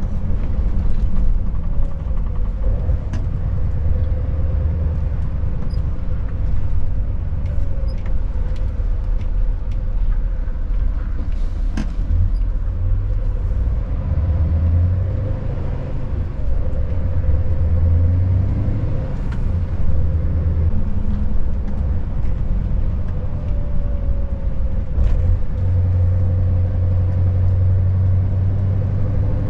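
Scania S580's V8 diesel engine running under way with tyre and road noise: a low steady drone that swells and eases at times.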